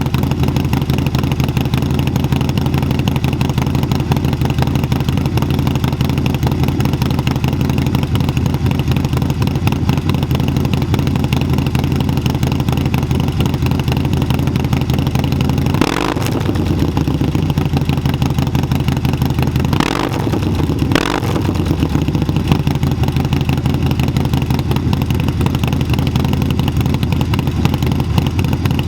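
Harley-Davidson Screaming Eagle 131 Milwaukee-Eight V-twin with an SP Concept exhaust and Cyclerama 483 cam, idling with a loud lopey exhaust while it warms up after a cold start. About halfway through the throttle is blipped once, then twice more in quick succession a few seconds later.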